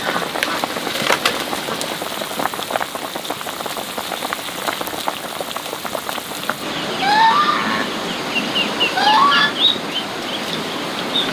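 Steady rain pattering, with many small drop hits. About two-thirds of the way through the sound changes, the rain thins, and short rising chirping calls come in, two clusters of them, with smaller chirps repeating after.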